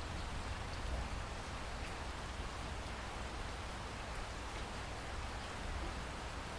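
Steady rain falling: an even hiss of drops, with a low rumble underneath.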